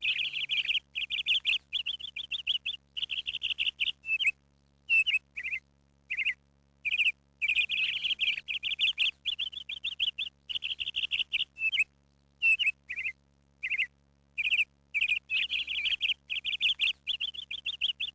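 Birds chirping in quick fluttering trills and short calls, one burst after another with brief pauses.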